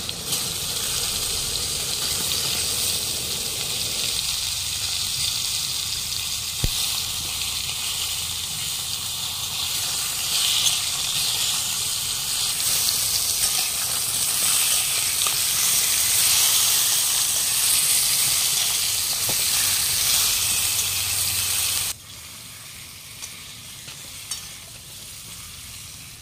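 Whole pointed gourds (potol), rubbed with salt and turmeric, frying in hot mustard oil in a wok: a steady, loud sizzle with a single sharp click about a quarter of the way in. Near the end the sizzle cuts off suddenly, leaving a much fainter hiss.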